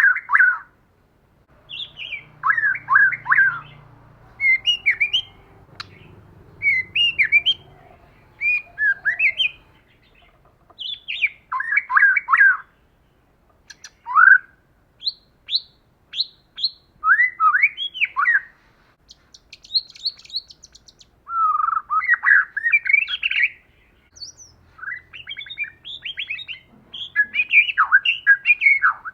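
White-rumped shama singing: a string of short, varied phrases of rising and falling whistled notes, a new phrase every second or two, with a quick dry rattle about twenty seconds in.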